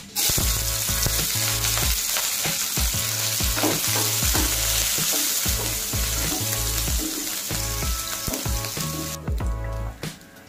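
Sliced onions and green chillies hitting hot mustard oil in a wok: a sizzle that starts abruptly and keeps frying as they are stirred with a wooden spatula. The sizzle dies down about a second before the end.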